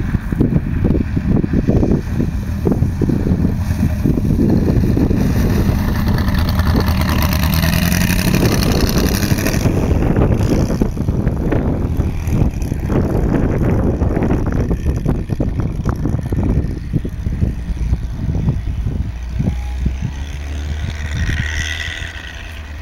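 A Volkswagen Beetle's engine running as the car drives through snow, revving up around the middle. Gusts of wind buffet the microphone with a heavy low rumble.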